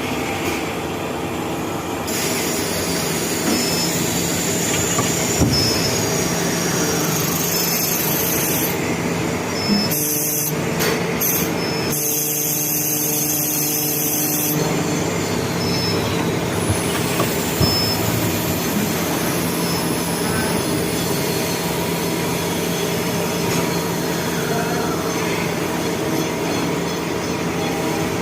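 CNC machine running while working a brass 3/4-inch NPT fitting: a steady mechanical din with several held tones. The high hiss drops out and changes for a few seconds around the middle.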